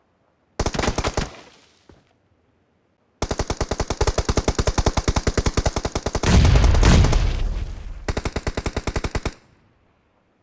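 Automatic gunfire from a shooter video game: a short burst about half a second in, then, after a pause, a long run of rapid, evenly spaced shots lasting about six seconds, with a louder, deeper blast partway through.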